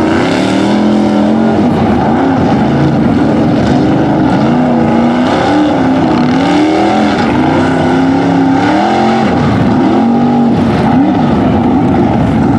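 Off-road mud vehicle engines revving, the pitch swinging up and down over and over.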